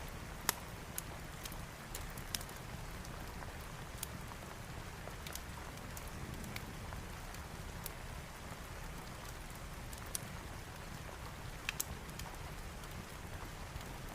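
Steady rain falling, with scattered sharp crackles and pops over it, typical of a wood fire burning in a fireplace.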